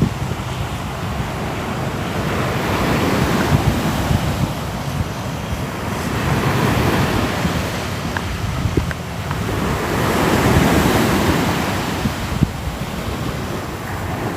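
Ocean surf: waves rolling in and breaking, the wash swelling and easing every few seconds, over a low rumble of wind on the microphone.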